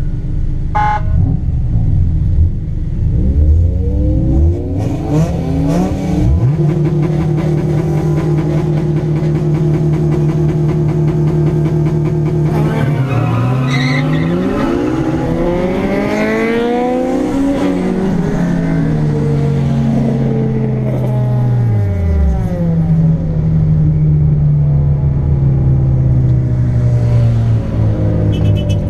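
Car engines heard from inside a car in a group of Honda Civics: held at steady revs, then several engines revving up and falling back over one another from a bit before the middle, before settling into steady running near the end.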